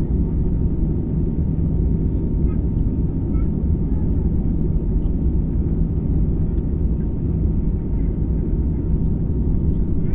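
Airliner cabin noise in flight: a steady low rumble of engines and airflow with a constant hum under it.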